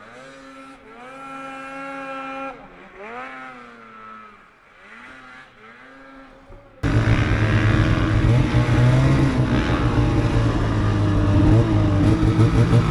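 Snowmobile engines revving: a sled's engine climbs and falls in pitch several times at moderate loudness. About seven seconds in it gives way abruptly to a much louder, close snowmobile engine running hard at high revs.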